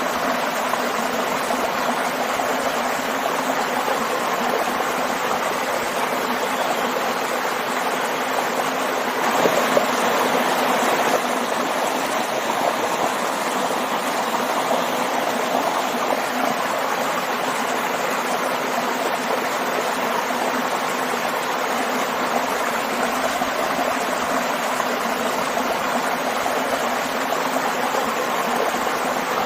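Stream and waterfall water rushing and splashing steadily, a little louder for a couple of seconds about nine seconds in.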